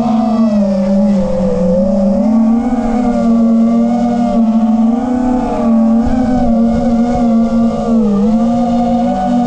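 5-inch FPV quadcopter's brushless motors and propellers whining at a steady pitch, which wavers slightly up and down with throttle.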